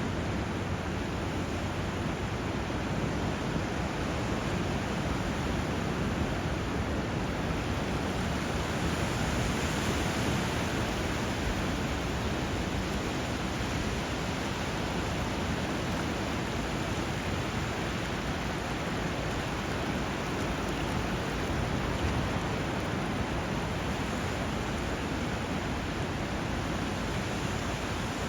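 Steady rush of flowing water where a river runs into the sea, swelling slightly about ten seconds in.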